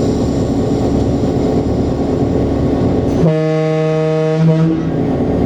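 A BL2 diesel locomotive's EMD 567 engine running, heard inside the cab. About three seconds in, the rumble gives way to a steady, horn-like pitched tone that holds for about a second and a half before the engine noise returns.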